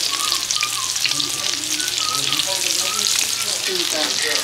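Egg-battered pieces frying in oil on a coated steel camping griddle, a steady dense sizzle and crackle.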